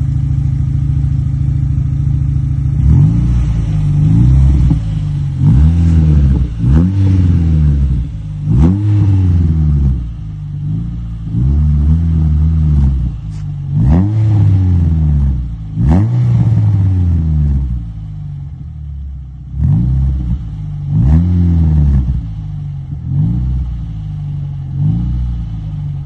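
A Renault car's engine revved through a straight-through exhaust with an NKS muffler. It idles steadily at first, then is blipped over and over, each rev rising and falling back, with a few sharp cracks among them.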